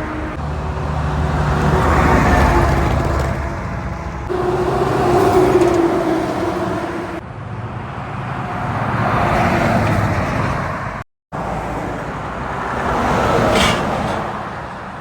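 Heavy trucks passing one after another on a highway, each swelling and fading with engine and tyre noise. The sound breaks off sharply between passes, with a brief dropout about eleven seconds in.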